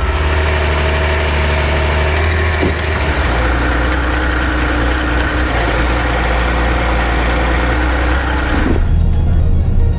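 Heavy logging truck's diesel engine running steadily, ending abruptly about nine seconds in.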